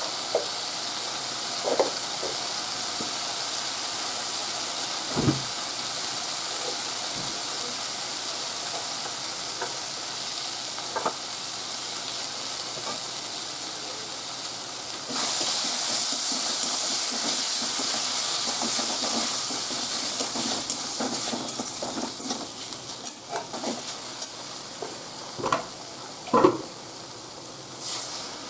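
Potatoes and masala paste sizzling in a kadai: a steady frying hiss that grows louder about halfway through. A few sharp spatula knocks on the pan, and stirring near the end.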